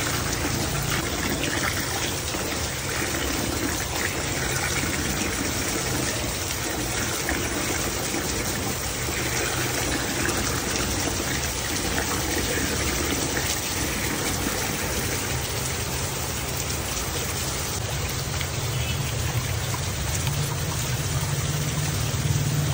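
Steady rain falling, with the wet swishing of hands rubbing and stirring rice in a plastic basin of water.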